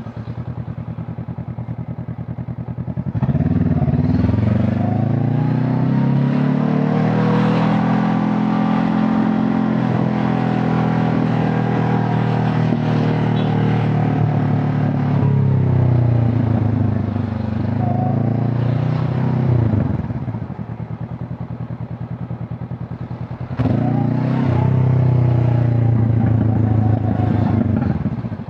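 Honda CB500 Hornet parallel-twin engine and exhaust under way. It runs steadily at first, then pulls up in revs about three seconds in and holds there. It winds down in pitch over several seconds as the throttle closes, then opens up and rises again near the end.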